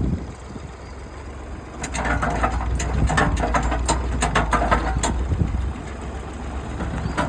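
Tractor engine running steadily at low revs, with a run of sharp cracks and snaps from about two to five seconds in as tree roots and wood are torn out of the ground.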